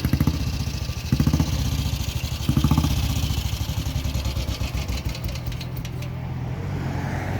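Motorcycle engine blipped three times in quick succession, then settling to a steady idle.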